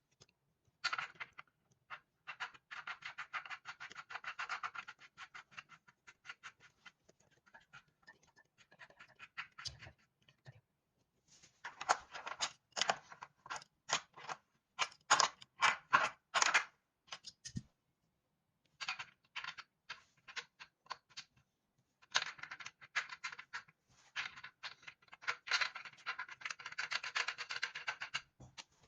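Hand tools and metal parts being worked on an exercise bike during a belt-pulley replacement. Runs of fast clicking and scraping come in bursts with short pauses, with a series of sharper clicks near the middle.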